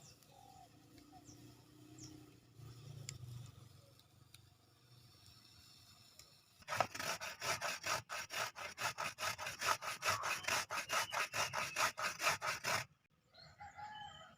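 Fast back-and-forth rasping strokes, about six a second, like food being grated or scraped by hand. They start about seven seconds in and stop abruptly some six seconds later.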